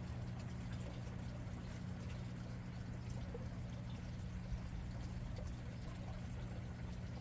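Water pouring and trickling steadily, over a constant low hum.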